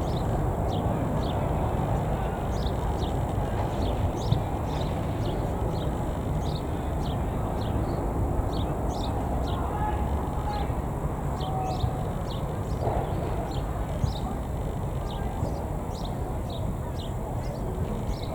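Small birds chirping over a steady low rumble: many short, high, falling chirps, a few each second.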